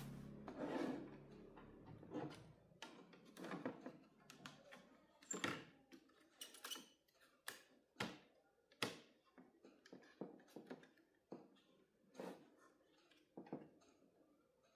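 Light clicks and knocks of small objects being handled, irregularly spaced, with a faint low hum in the first two seconds.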